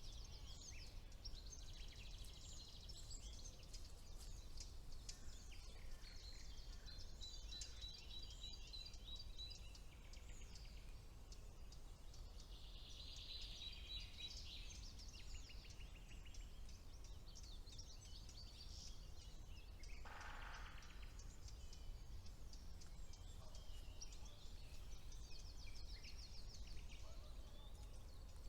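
Several songbirds singing at once in a spring woodland chorus: overlapping high trills and rapid runs of repeated notes, with a lower, rougher call about twenty seconds in, over a faint steady low rumble.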